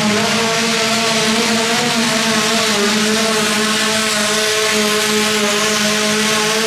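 Garden pulling tractor's engine held at high revs under load, its pitch nearly steady with only a slight dip partway through.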